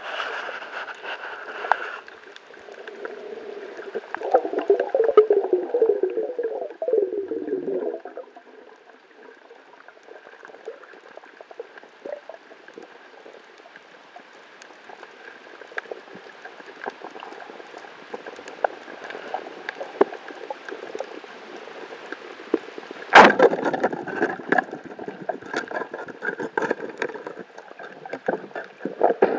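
Water sloshing and gurgling, loudest for a few seconds near the start. About 23 seconds in there is one sharp knock, followed by a run of small clicks and splashes.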